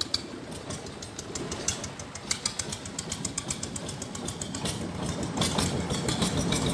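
Long-tail boat engine running under way, with a rapid even ticking over a low rumble. The rumble grows louder about five seconds in.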